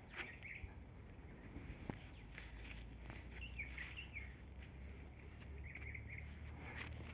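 Faint birds chirping in short bursts of a few notes, with scattered light clicks and a low steady rumble underneath.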